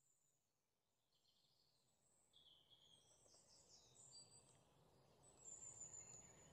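Near silence: faint room tone with small birds chirping in the distance.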